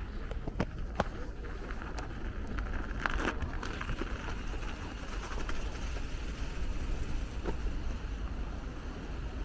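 Steady low rumble of street traffic and wind on the microphone, heard from a moving bicycle, with a few sharp clicks.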